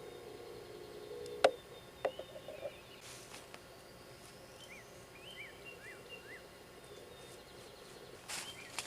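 A sharp metallic click about a second and a half in, then a lighter click with a brief ring, as thin metal tent stakes are handled. Small birds chirp faintly after that.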